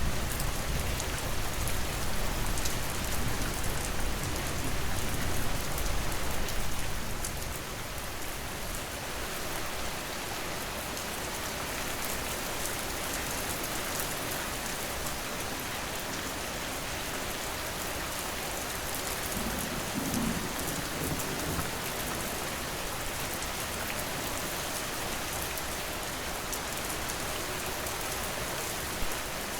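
Steady rain falling, an even hiss of drops on surfaces. A low rumble underlies the first several seconds and fades out about seven seconds in.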